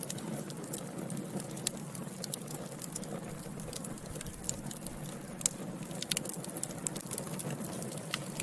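Wood fire burning in a fireplace: a steady low hiss of flames with frequent irregular crackles and sharp pops, a couple of the loudest pops about halfway through.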